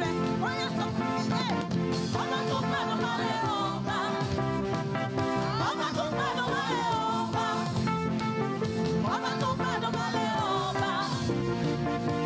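Live gospel praise music: instruments hold steady chords while a wavering, sliding melody is sung over them.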